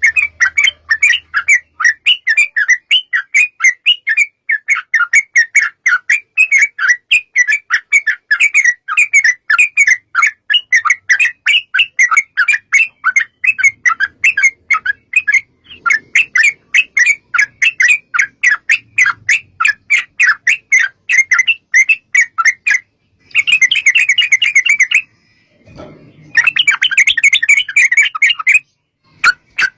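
Yellow-vented bulbul (trucukan) calling in a long rapid run of short chattering notes, about four a second. Near the end it breaks into two denser bursts of fast chatter.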